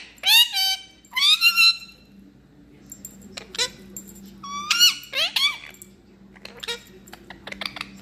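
Pet parrot squeaking: short, rising, whistle-like squeaks in quick clusters, several in the first two seconds and more around the middle, with fainter clicks near the end.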